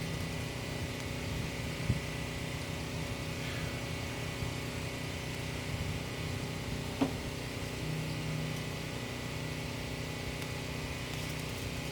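A steady engine hum running evenly, with two short knocks, one about two seconds in and a sharper one about seven seconds in.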